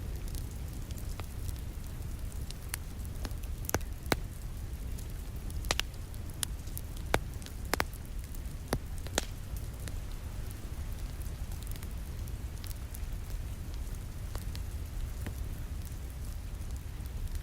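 Wood fire crackling in a fireplace, with sharp pops that cluster in the first half, over a steady low rumble and the soft hiss of rain against a window.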